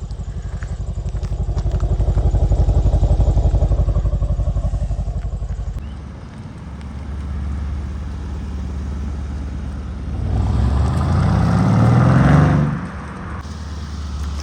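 Mercedes-AMG C 63's twin-turbo V8 running through a custom exhaust while not yet warmed up. It idles with a deep, pulsing "boom, boom" burble, then is revved briefly about ten seconds in, the pitch rising before it drops back to idle a couple of seconds later.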